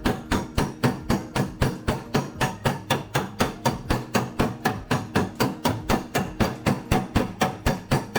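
Hammer tapping a steel car body panel in a rapid, even rhythm of about four blows a second. Each blow rings briefly.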